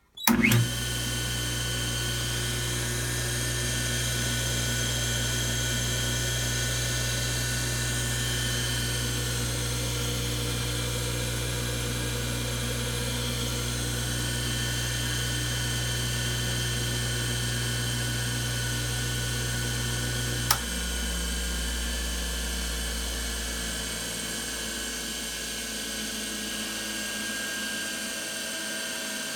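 A Craftsman 1 hp capacitor electric motor starts abruptly and runs with a steady hum and a high whine. A single sharp click comes about two-thirds of the way through, after which the hum's low tone changes and it runs a little quieter.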